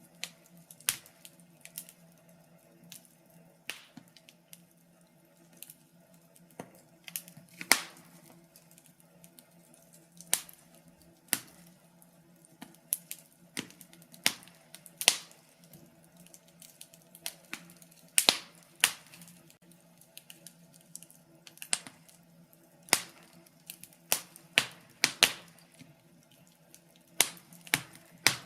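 Wood fire crackling: irregular sharp pops and snaps, some single and some in quick clusters, over a faint steady hum.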